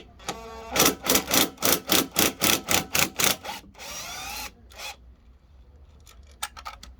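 Hand tool working on a lawnmower: a short squeak, then about ten quick rasping strokes, roughly four a second, ending in one longer scrape.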